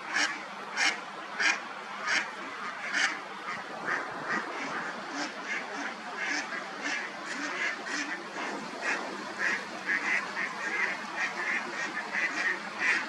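Ducks quacking: a series of short calls, spaced at first, then a quicker run of calls near the end.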